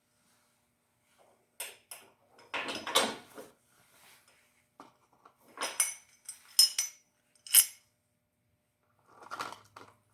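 Small metal parts and hand tools clinking and rattling against each other during small-engine disassembly: a series of sharp clinks, with a longer clatter about a third of the way in and more clinks near the end.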